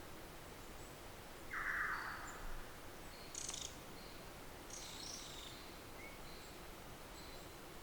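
Faint outdoor ambience with distant birds: short high chirps repeating throughout, one louder harsh call about a second and a half in, and brief high calls around three and a half and five seconds.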